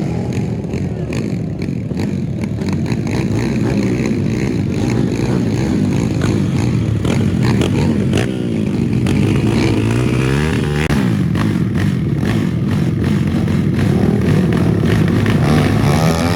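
Motorcycle engines running hard at high revs, their pitch sweeping up and down as they accelerate, with another rising sweep near the end.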